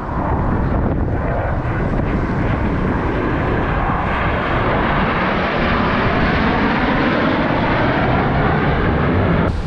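A formation of aircraft flying past at an air show, a loud, steady roar of engines that swells through the middle and breaks off suddenly near the end.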